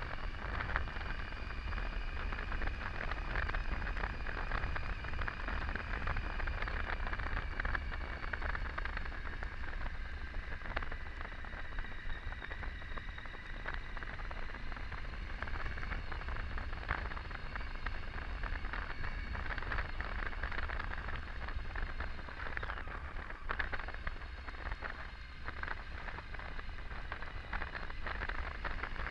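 Triumph Tiger 800's three-cylinder engine at a steady cruise, under wind rush and road noise, with a faint whine whose pitch drifts slowly.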